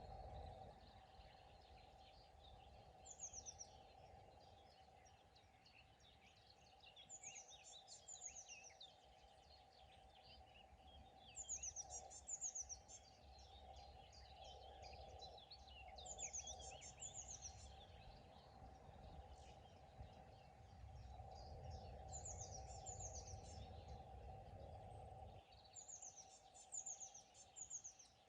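Faint birdsong: a songbird repeats a short, high phrase of quick falling notes six times, a few seconds apart, while other birds chirp softly. Underneath are a steady faint hum and a low rumble.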